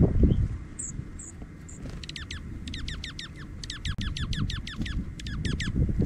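A small songbird calling: a few short, high chips, then fast runs of down-slurred notes, several a second, in a few bursts. Behind it is a steady low rumble.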